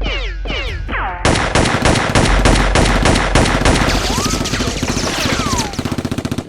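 Rapid automatic gunfire, a machine-gun burst that starts about a second in and runs on as a fast, even train of shots, breaking into separate shots near the end. A few falling whistle-like glides come before the burst and over it.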